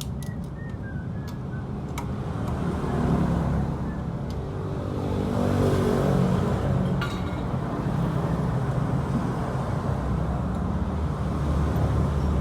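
Motorcycle engine running, its pitch rising and then settling back about halfway through, with a few sharp clicks.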